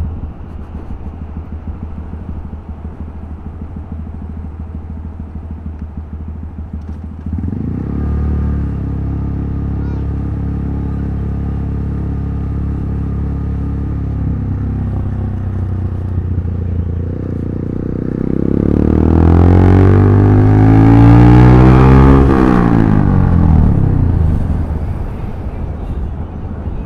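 Honda Grom 125's single-cylinder four-stroke engine running under way, with road and wind noise. It steps up in level about a quarter of the way in. Near the end a louder rushing swell with sweeping pitch builds and fades over about five seconds.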